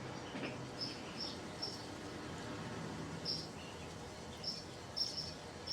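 Faint, short high-pitched chirps, about eight of them at irregular intervals, over a quiet low background, like outdoor ambience with small creatures calling.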